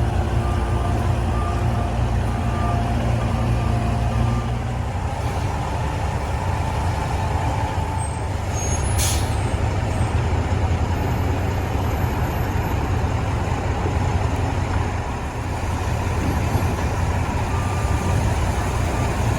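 Heavy vehicle engine idling with a steady low rumble. A reversing alarm beeps over the first four seconds or so, and a short hiss of released air comes about nine seconds in.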